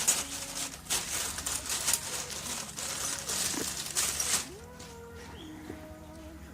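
Rustling, scraping handling noise for about four seconds as hands and a spanner work at the scooter's carburetor fittings, then it stops. Soft background music plays throughout.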